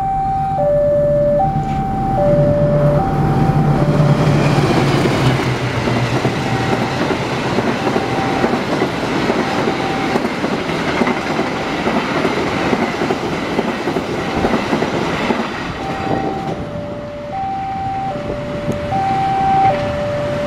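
Diesel-hauled passenger train passing close by at a level crossing: the locomotive's engine rumble is loudest in the first few seconds, followed by the rush and clatter of the coaches going by. The crossing's electronic two-tone warning alarm alternates high and low throughout, is half drowned while the coaches pass, and is plain again near the end as the train moves away.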